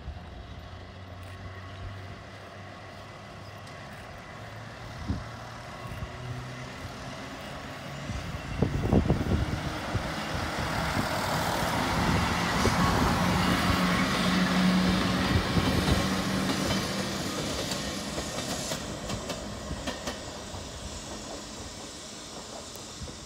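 A train passing by. The sound builds from about a third of the way in, is loudest a little past halfway with a steady hum in it, then fades away.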